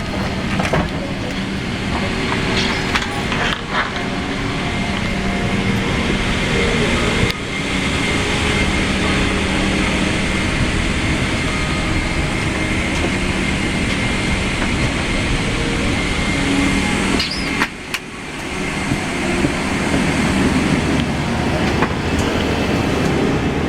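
Steady cabin hum of a Boeing 777-300ER parked at the gate: air-conditioning noise with a low drone and a thin steady whine, and a few light clicks. It drops out briefly twice.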